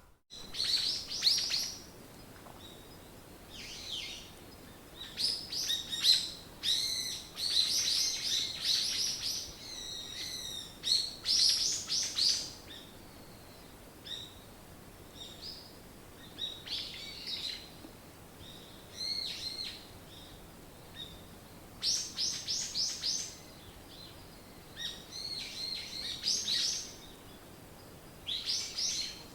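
Several songbirds singing and chirping in phrases of quick, high, trilled notes, one after another, with short pauses between the phrases.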